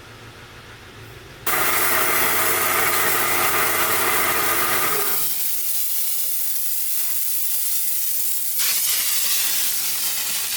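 Loud hissing of a high-pressure jet, starting suddenly about a second and a half in, easing after a few seconds and then coming back in a second strong burst near the end.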